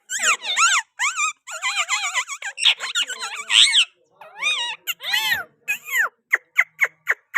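Indian ringneck parakeet (green Pakistani ringneck) calling: a rapid string of short, high-pitched calls that bend up and down in pitch. In the last second or so they break into quick, separate falling chirps.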